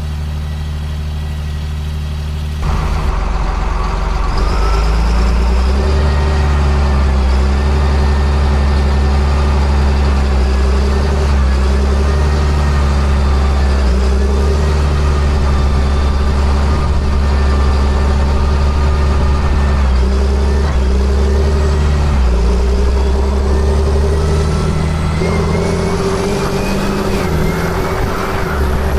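A John Deere sprayer's diesel engine running steadily under load, with a faint whine above the engine note. The sound steps up abruptly louder a few seconds in.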